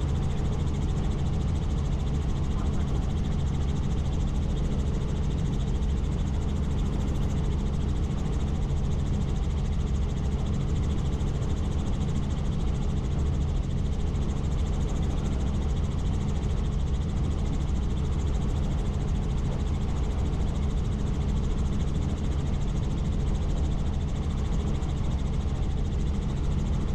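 Helicopter in flight: a steady drone of rotor and engine with an even rushing noise, holding constant with no change in pitch or level.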